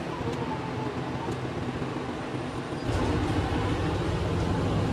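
Running noise heard inside the door vestibule of the Super Hakuto, a Chizu Express HOT7000 diesel multiple unit, as it draws along the platform into the station. A steady low rumble with a few faint clicks grows louder about three seconds in.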